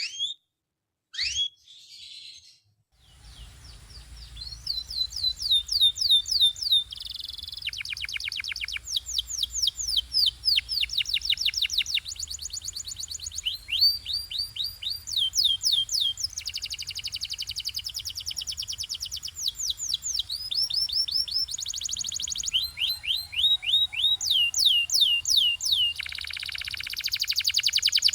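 Domestic canary singing: a few separate whistled notes, then from about three seconds in a continuous song of rapid repeated downward-sweeping notes and fast trills, changing to a new phrase every second or two. A faint steady low hum lies under the song.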